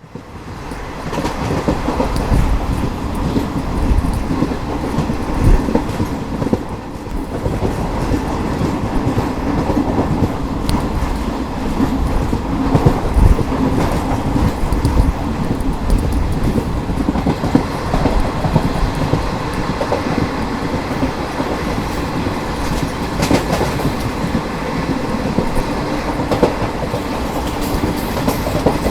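ICF passenger coaches running at speed: a steady rolling rumble with a rapid clatter of wheels clicking over rail joints. The sound fades in over the first second.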